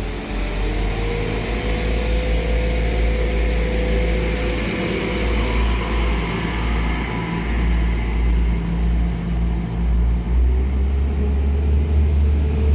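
Diesel train engine running with a steady low hum that grows louder about ten seconds in, as the engine takes more power.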